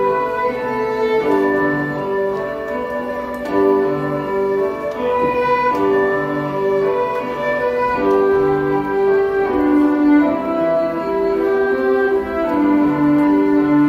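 Two violins playing a slow tune in long held notes, with a lower accompaniment beneath.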